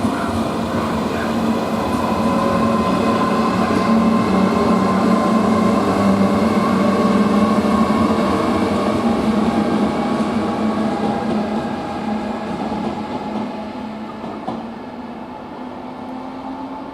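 A train running through the station with a steady mechanical hum and a level drone-like tone. It grows louder for the first few seconds and then fades away as the train moves off.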